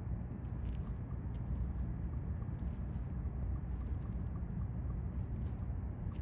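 Steady low rumble of a large ship's engines across the harbour, with a few faint scattered clicks.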